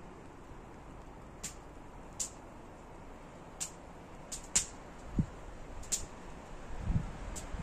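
Scattered short, sharp ticks, about one a second, over a faint steady hiss, with a couple of soft low thumps in the second half.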